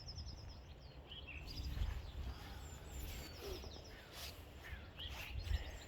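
Small birds chirping and trilling in short phrases, over a steady low rumble and a few faint knocks.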